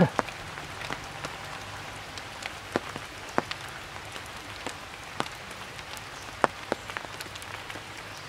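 Rain falling on tree foliage: an even hiss with irregular sharp ticks of single drops striking leaves and branches, the loudest one right at the start.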